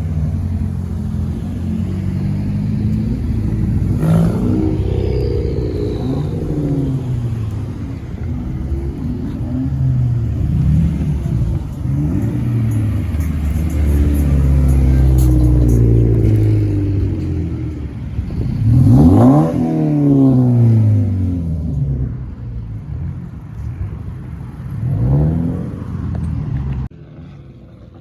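Car engine accelerating, its revs climbing and falling several times, with the loudest, sharpest rev about two-thirds through; the sound cuts off suddenly near the end.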